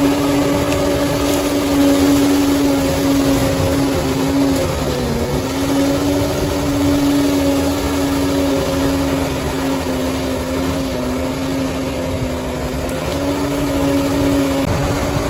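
Bulldozer's diesel engine running steadily under work, its pitch dipping briefly about five seconds in and again near the end as it takes load.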